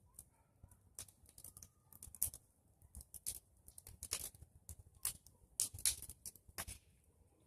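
Bonfire of pruned tree branches crackling, with irregular sharp pops several times a second.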